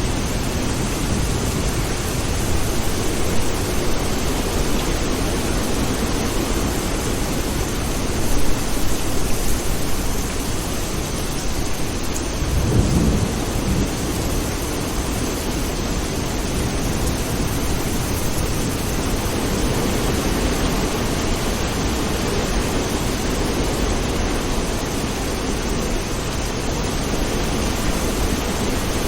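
Steady rain falling, with low rumbles of distant thunder; one stronger rumble swells up about halfway through.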